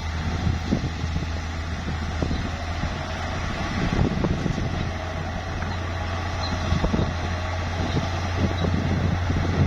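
Heavy bulldozer's diesel engine running steadily with a low hum, with frequent short irregular clanks and knocks over it.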